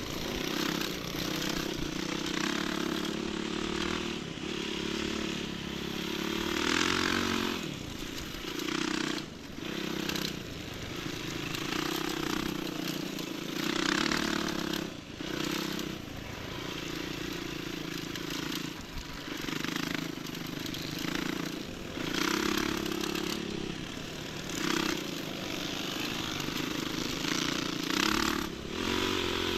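Enduro motorcycle engine running while riding off-road. The throttle rises and falls, with short drops in engine note every few seconds, and there are repeated rushes of noise.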